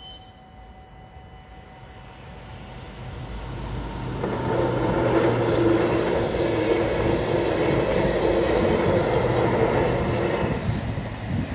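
NS ICM (Koploper) electric intercity train passing over a level crossing. It builds up over the first few seconds, is loud for about six seconds as the carriages go by, then falls away near the end.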